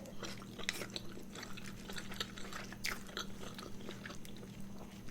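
Close-up chewing of a mouthful of spicy mixed noodles: irregular wet smacks and small clicks of the mouth, several a second.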